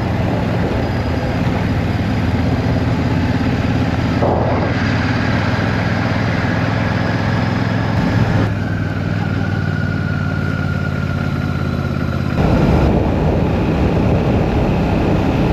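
Royal Enfield Shotgun 650's parallel-twin engine running steadily while being ridden, getting louder about twelve seconds in.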